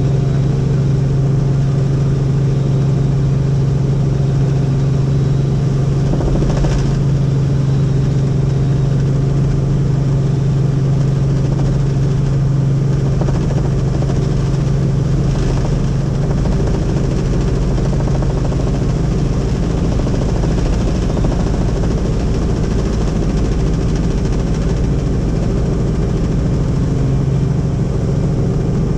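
Helicopter in flight: a steady, loud drone from its engine and rotor, dominated by a strong low hum.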